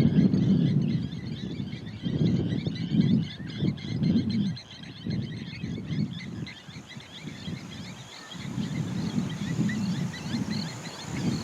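A chorus of small birds chirping and twittering, over a low, uneven rumble that rises and falls in patches.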